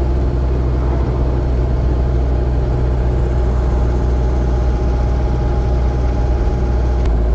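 Land Rover Series 2a's engine running steadily, a low drone with a slight change in its note near the end.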